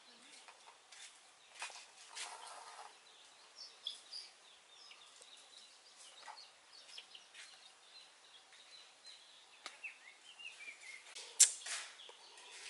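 Faint yard ambience with scattered small clicks and rustles and a few short bird chirps, including a quick falling run of chirps about ten seconds in. A single sharp click near the end is the loudest sound.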